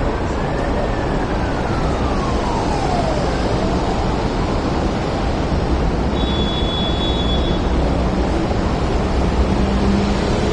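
MTR Kwun Tong Line train running along the elevated track, heard from street level over steady traffic noise. A whine falls in pitch over the first few seconds, then rises again.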